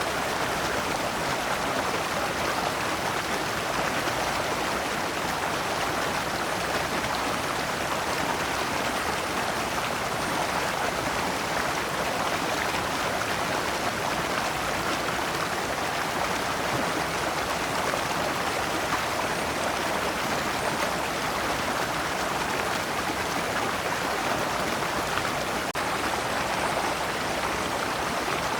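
Shallow stream running over large stones in small cascades: a steady, even rush of water that neither swells nor breaks.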